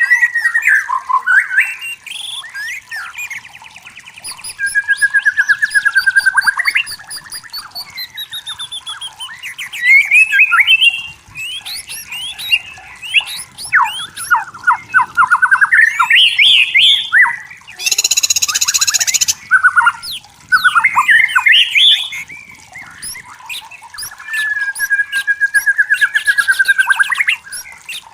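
White-rumped shama singing a long, varied song of clear whistles, fast trills, pitch glides and rapid repeated notes. A harsh rasping note comes about 18 seconds in.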